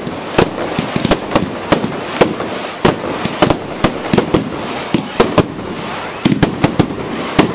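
Fireworks going off: an irregular run of sharp bangs and cracks, several a second, over a steady background hiss.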